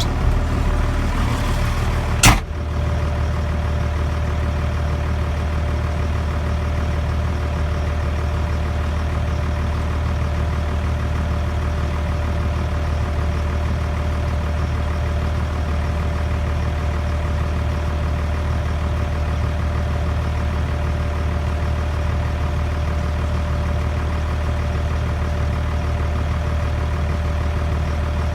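Case 5140 tractor's 5.9 Cummins diesel idling steadily. A single sharp knock comes about two seconds in, and the engine is a little busier before it than after.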